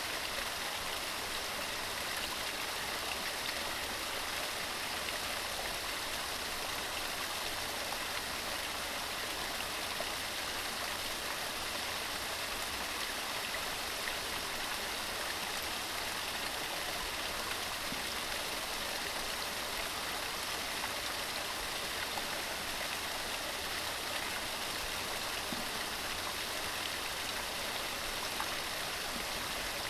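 Upland mountain stream running steadily over rocks, a continuous even rush of water with a fine splashing hiss.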